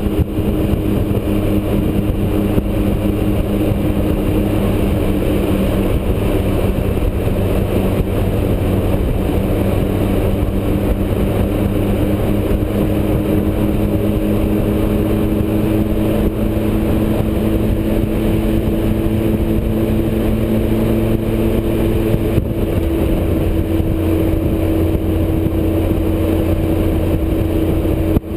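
Motorcycle engine running steadily at highway cruising speed, mixed with wind rush on the microphone. About three-quarters of the way through the engine note changes, as with a throttle or gear change.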